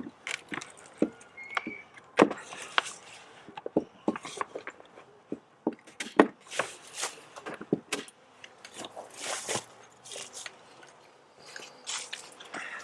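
Stiff tar paper being handled and pressed around a wooden beehive: irregular crackles, sharp clicks and knocks, with a few short rustles.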